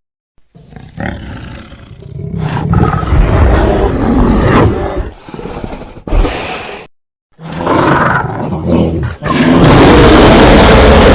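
Cartoon bear roars and growls from animated-film sound effects, played as separate clips with short silent gaps between them. A louder unbroken roar begins about nine and a half seconds in.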